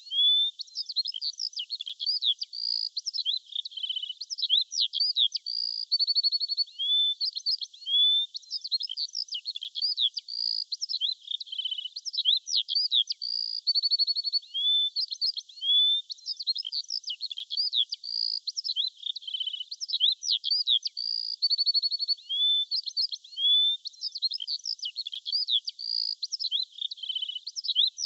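Birdsong: a dense run of high chirps, buzzy trills and rising whistled notes, the same stretch of song repeating about every eight seconds.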